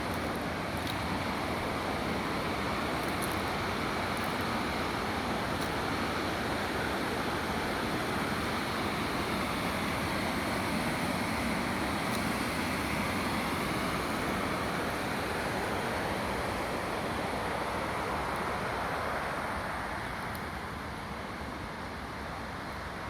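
Waterfall: a steady rush of falling water, a little quieter over the last few seconds.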